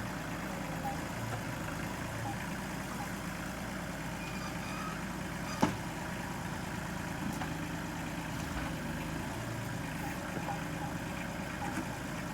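An engine idling steadily, with a single sharp knock about five and a half seconds in.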